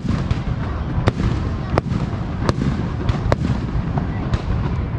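Aerial fireworks bursting, sharp bangs about once a second over a continuous low rumble of further shells.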